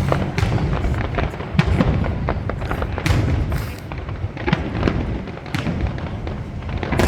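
Fireworks display going off: many sharp bangs and crackling pops in quick succession, several a second, over a steady low rumble.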